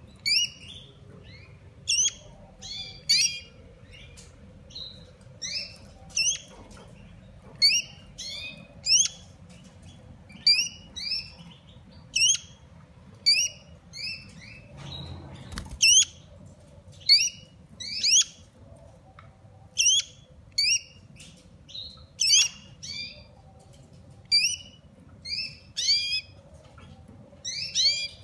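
A fledgling songbird calling over and over: short, high, upward-sweeping chirps about once a second, often two or three in quick succession.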